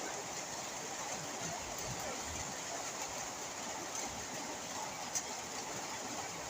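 Steady heavy rain falling, an even hiss of water.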